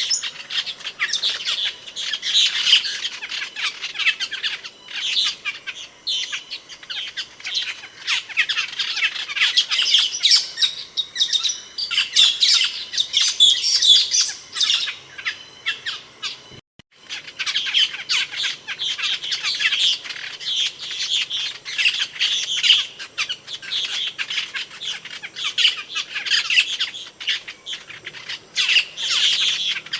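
Asian glossy starling (cucak keling) calling: a steady stream of quick, sharp, squeaky notes and chirps, broken by a short gap about 17 seconds in.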